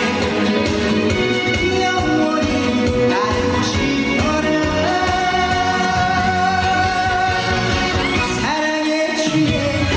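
A trot song performed live through a PA: a male vocalist sings over a band backing with a steady bass beat. He holds one long note in the middle, and the bass drops out briefly near the end.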